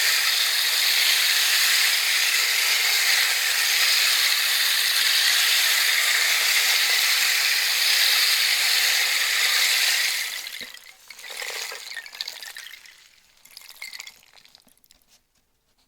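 A steady trickling, hissing rush like a running brook, which cuts off about ten seconds in; a few scattered trickles and patters follow and fade out.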